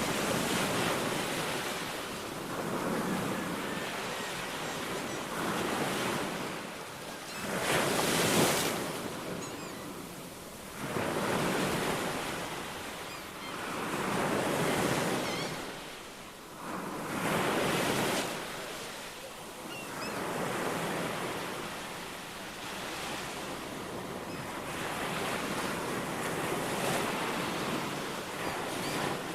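Ocean surf: waves breaking and washing in, swelling and fading in repeated surges every few seconds, the loudest about eight seconds in.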